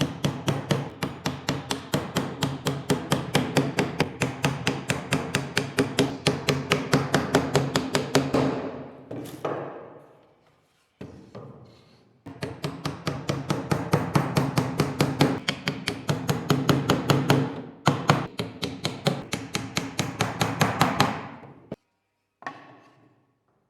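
A hand tool working wood in fast, even strokes, about four to five a second, with a steady ringing tone under them. The strokes come in two long runs with a short break of a few seconds between.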